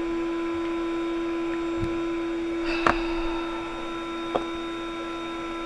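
Electric air pump running steadily as it inflates an air mattress, a constant hum. A few light clicks of handling, the sharpest about three seconds in.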